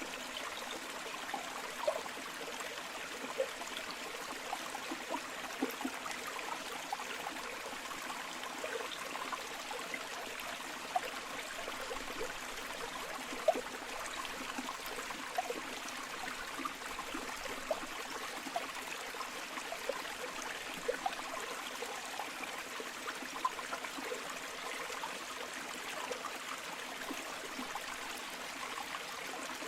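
A river flowing steadily: a continuous rush of water dotted with many small splashes and gurgles, a few of them a little louder.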